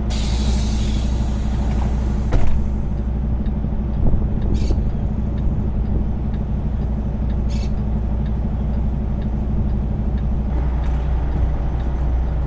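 Semi truck's diesel engine idling steadily, with a hiss over the first few seconds and a few scattered clicks.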